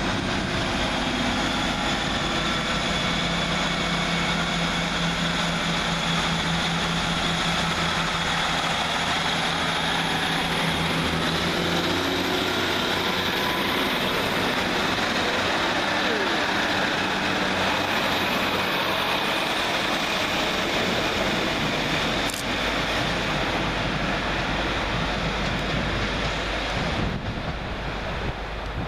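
Two coupled Class 150 Sprinter diesel multiple units pulling away, their underfloor Cummins diesel engines running steadily under power. There is a single sharp click about two-thirds of the way through, and the sound eases off near the end.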